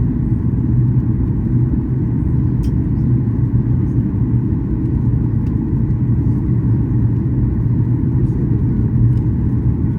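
Steady low rumble of a Boeing 737-800's engines and airflow, heard inside the passenger cabin.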